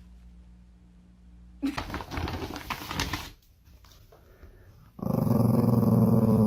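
A dog growling. A rough, noisy stretch comes about two seconds in, then a loud, long, low growl starts about five seconds in.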